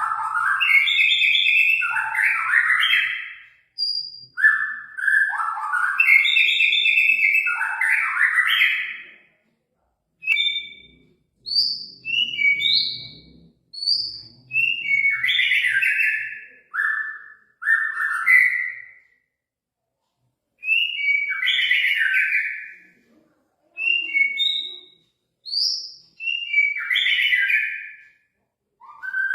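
White-rumped shama (murai batu) singing loud phrases of quick whistled and harsh notes that jump in pitch. The phrases are broken by short silences of about a second, one near the middle and one near the end.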